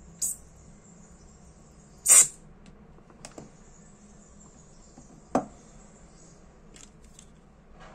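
Small handling sounds of a Dupont L2 lighter being worked on during a gas test: a few scattered sharp clicks and taps, the loudest a short burst about two seconds in, and another clear click about five seconds in.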